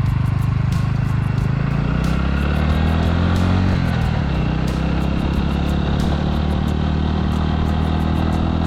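Suzuki Grasstracker's single-cylinder engine running as the motorcycle is ridden, its note rising and easing a little in the first few seconds and then holding steady.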